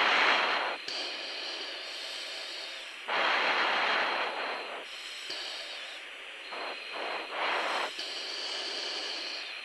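Breathing through a fighter pilot's oxygen mask heard over the F/A-18 cockpit intercom: hissing surges of a second or two every few seconds over a steady background hiss.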